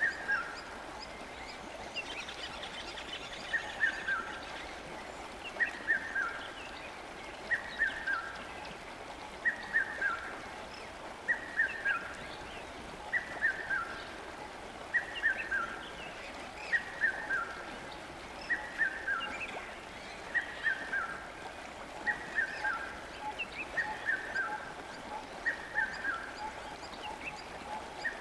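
A bird repeating the same short call, a few notes falling in pitch, about every two seconds, over the steady rush of flowing river water.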